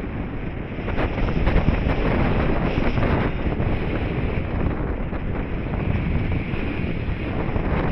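Airflow rushing and buffeting over the microphone during a paraglider flight, a steady gusty rumble.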